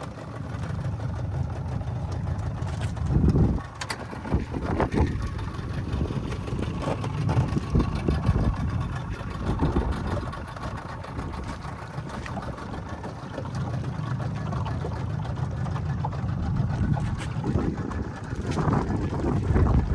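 Motorboat under way, its engine and the water making a steady low rumble, with wind gusting over the microphone in loud surges.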